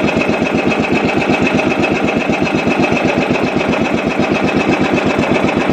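Small boat engine running steadily, with a rapid, even chugging pulse.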